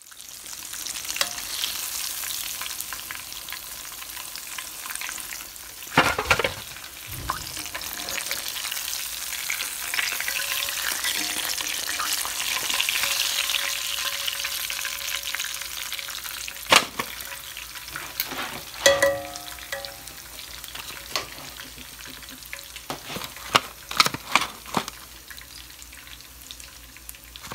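Flour-dredged pork steaks frying in hot oil: a steady sizzle that eases somewhat in the second half, with occasional sharp knocks and clinks of a utensil or the pan.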